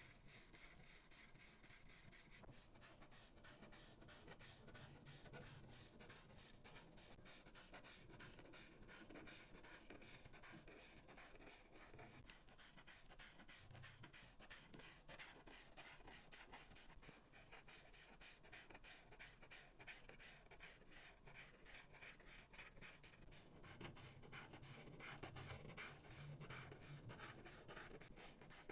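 Faint scratching of an alcohol marker's tip on paper in rapid back-and-forth coloring strokes, a little louder near the end.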